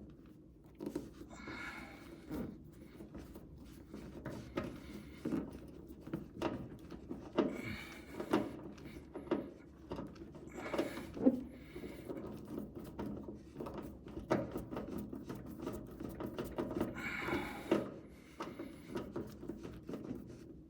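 Irregular clicks, knocks and short scraping rustles of hand tools, fasteners and a body panel being handled while a front spoiler is fitted.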